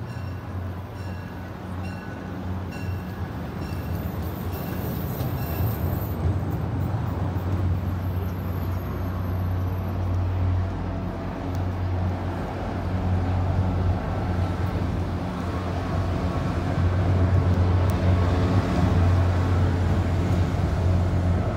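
MBTA commuter train passing on the elevated line, a steady low diesel drone with rolling noise that grows gradually louder as the locomotive comes by near the end.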